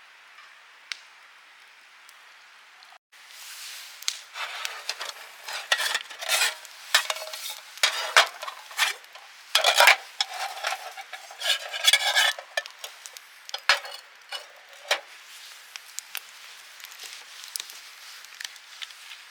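Metal cookware and utensils clattering and scraping in quick, irregular bursts. They start about three seconds in and ease off over the last few seconds.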